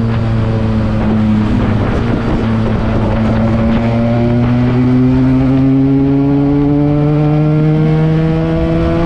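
Benelli TNT 300 parallel-twin engine with an aftermarket Akrapovič exhaust, running under way. The engine note holds steady, breaks up for a moment about two seconds in, then climbs slowly and evenly as the bike accelerates.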